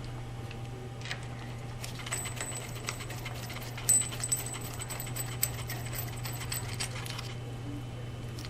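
Small metal parts clinking and jingling with many light taps and a thin metallic ring, densest between about two and seven seconds in, over a steady low hum.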